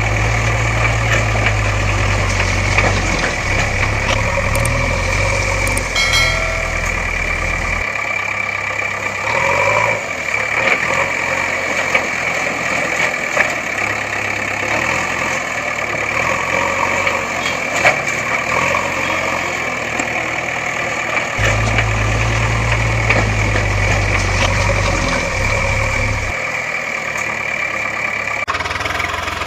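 Engine running at idle, a steady mechanical drone with a deep low rumble that drops out about eight seconds in and comes back for a few seconds near the end.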